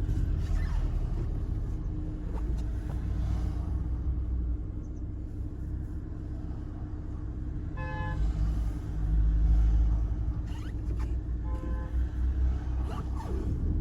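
Road noise heard from inside a moving car: a steady low rumble of the engine and tyres, with a brief pitched tone about eight seconds in and a fainter one near twelve seconds.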